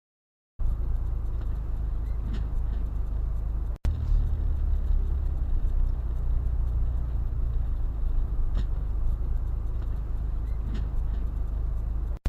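Steady low rumble of a vehicle on the road as picked up by a dash camera, starting about half a second in, with a brief gap a little before four seconds.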